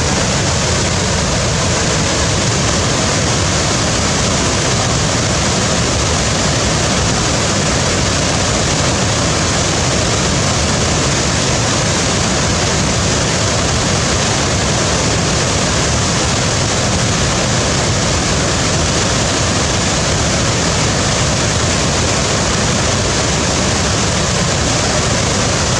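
Waterfall: a steady, unbroken rush of falling water, loud and unchanging throughout.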